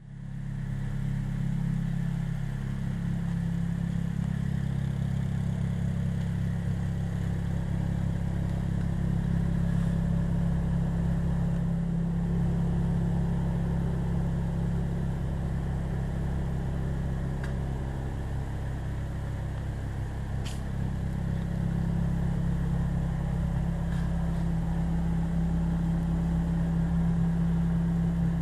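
Honda Civic Type R rally car's engine idling steadily, with no revving.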